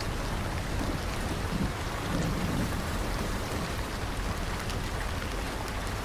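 Steady rain falling and pattering on surfaces, with individual drops ticking through it and a low rumble underneath.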